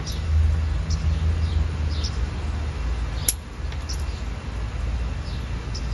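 Small birds chirping outdoors, short high chirps coming about once or twice a second, over a steady low rumble. A single sharp click sounds about three seconds in.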